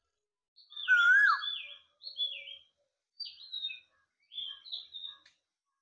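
A bird calling in a series of short notes, many sliding down in pitch, with brief pauses between them.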